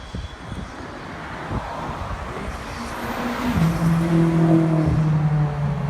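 BMW M6 Gran Coupe's twin-turbo V8 with straight-piped exhaust driving by, growing louder to a peak about four seconds in. A steady engine drone comes in partway through and holds, then eases off slightly near the end.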